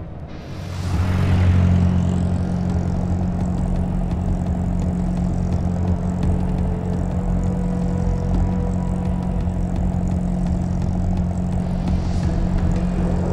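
A whoosh in the first second or two, then a steady, low, engine-like drone that holds on: a cartoon engine sound effect.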